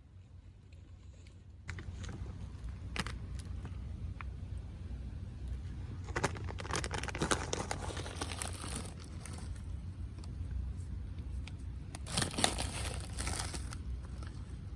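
Clinking and crinkling of small objects being handled, in two bursts, over a steady low rumble.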